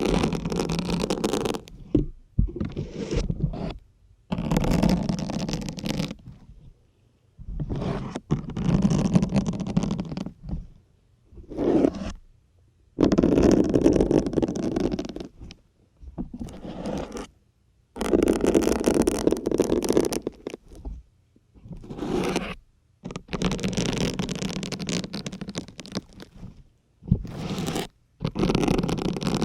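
Syringes being pushed one after another into a dense grey sponge, giving squeaky, crunching scrapes. There are about a dozen separate pushes, each lasting one to three seconds, with short pauses between them.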